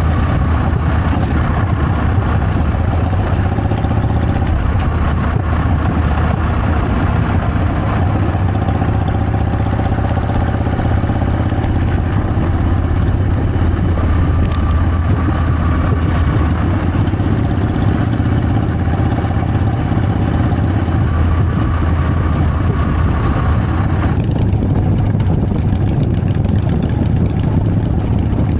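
Harley-Davidson Sportster's V-twin engine running steadily under way, with a steady hiss over it. About twenty-four seconds in, the upper hiss drops away sharply while the engine carries on.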